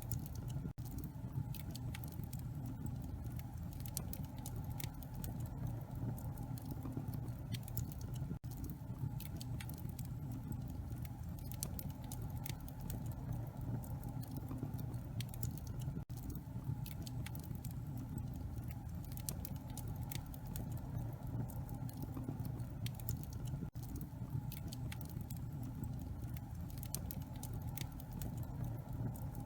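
Wood fire crackling and popping in a fireplace, with many small irregular snaps over a steady low rumble.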